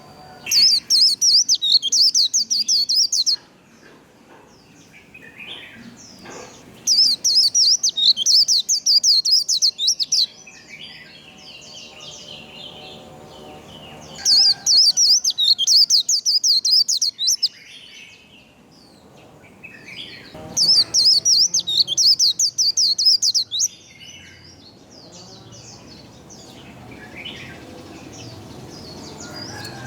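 White-eye singing its rapid, high-pitched 'líu' warbling song in four bursts of about three seconds each, coming roughly every six to seven seconds, with fainter calls and noise between the bursts.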